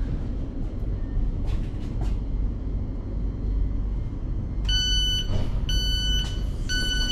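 Train rumbling along, and about two-thirds of the way in the carriage's door beeper starts: a high two-tone beep repeating about once a second, signalling that the doors are released and can be opened with the button.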